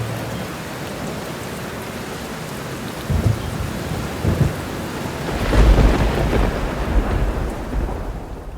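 Steady rain with thunder: two short low rumbles about three and four seconds in, then a longer, louder rolling peal from about halfway through.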